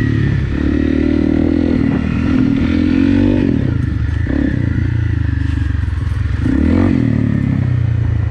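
Honda CRF250 Rally's single-cylinder four-stroke engine running under load while being ridden, revs rising and falling repeatedly with the throttle.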